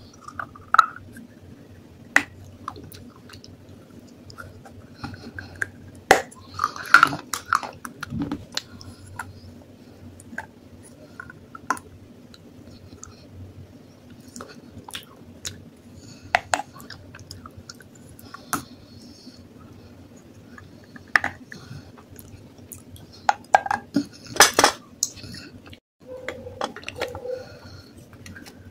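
Someone biting and chewing pieces of baked clay pot: irregular sharp crunches and cracks, heaviest in two clusters, one about a quarter of the way in and one near the end, over a faint steady hum.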